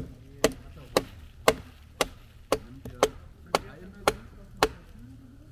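Wood being chopped with steady strokes, about two a second, ten in all, stopping a little before the end.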